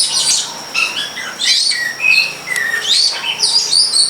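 Long-tailed shrike (cendet) singing: a busy run of quick, varied high chirps and whistled sweeps that rise and fall.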